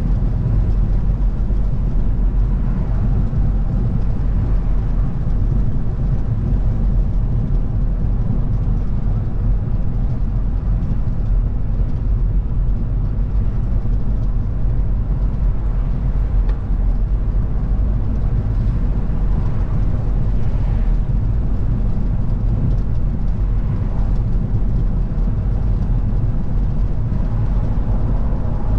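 Car driving at a steady pace: a continuous low rumble of engine and tyre road noise that holds an even level.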